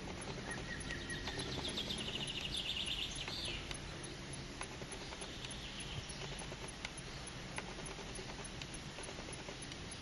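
A small bird singing a fast trill of high notes, starting about a second and a half in and lasting about two seconds, with a fainter trill about six seconds in. Underneath are a steady low outdoor hum and scattered faint clicks.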